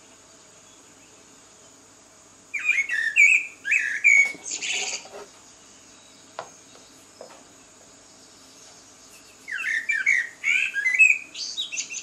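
A songbird singing two phrases of quick, varied chirps and whistles, each about two and a half seconds long, with a pause of several seconds between them, over a steady high hiss.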